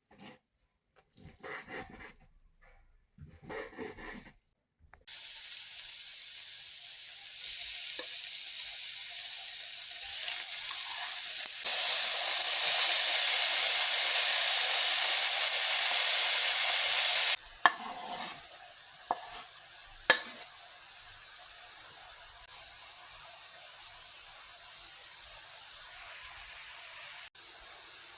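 Food frying in a hot pan: a few short scraping sounds, then a loud steady sizzle starts suddenly about five seconds in and grows louder. Near the middle it drops abruptly to a quieter sizzle, with a couple of sharp knocks from a utensil against the pan.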